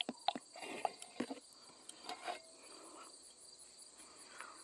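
Motor oil glugging out of its bottle into a funnel, a quick run of glugs in the first second or so that then trails off to a faint pour.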